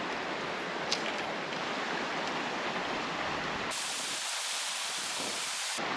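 Steady rush of a flowing creek running high. About four seconds in, a harsh hiss lasting about two seconds covers it while the deeper part of the water sound drops out.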